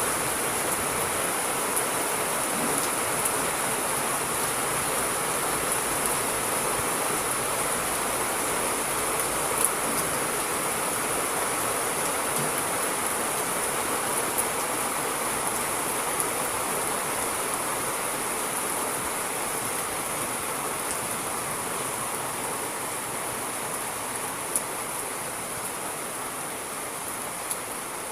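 Steady rainfall, an even hiss with occasional sharper drop ticks, slowly fading over the stretch.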